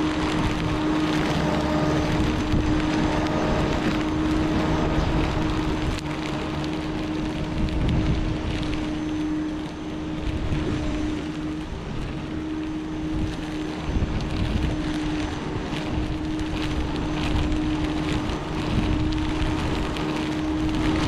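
Flymo electric lawn mower running as it cuts long overgrown grass: a steady motor hum over the rush of the blade and grass, the hum breaking briefly about halfway.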